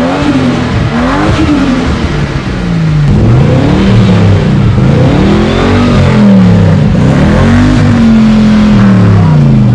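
Car engine revving loudly, its pitch climbing and falling again and again, with several rev sweeps in a row.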